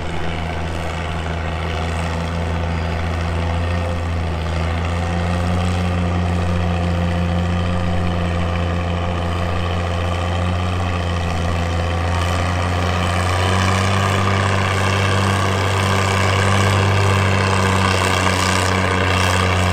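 Heavy engine of a pulling truck working hard under steady load during a sled pull run. Its deep note holds steady, then steps up in pitch about two-thirds of the way through and grows louder toward the end.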